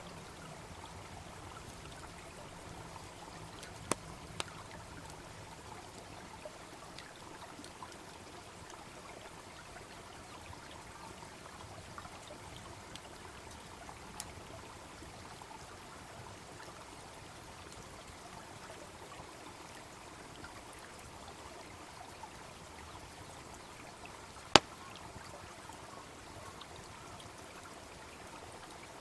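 A brook babbling steadily, with a wood fire crackling over it: a few sharp pops and one much louder snap near the end.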